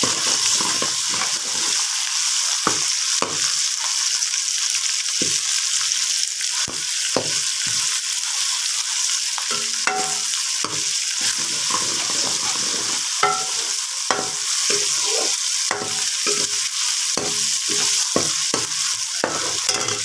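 Onions, tomatoes and ginger-garlic paste sizzling steadily in hot oil in an aluminium karahi while a metal ladle stirs them, scraping and knocking irregularly against the pan. The masala is being fried until the tomatoes soften and the raw smell of the paste cooks off.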